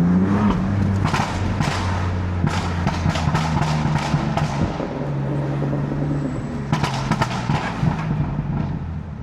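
BMW F80 M3's twin-turbo straight-six exhaust, its note rising as it pulls. It then crackles and pops in three bursts on lift-off, over a low running hum.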